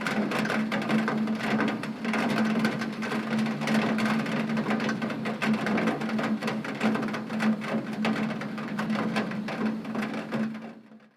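Heavy rain pattering on window glass, a dense mass of fast drop ticks over a steady low hum, fading out to silence near the end.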